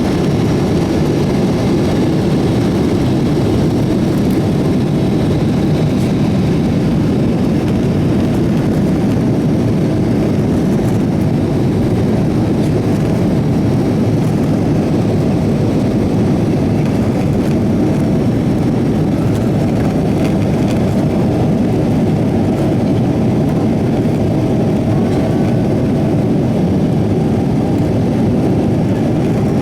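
Jet engines and rushing air, heard inside an airliner's cabin as it takes off: a loud, steady, deep roar that keeps an even level.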